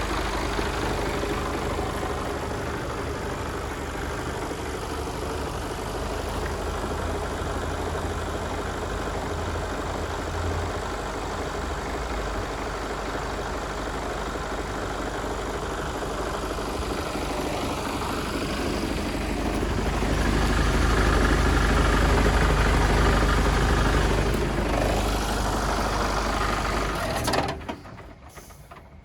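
Mercedes Actros 1842 tractor unit's 420 hp Euro 6 straight-six diesel running steadily at idle. It gets louder for a few seconds about two-thirds of the way through, then the sound cuts off suddenly near the end.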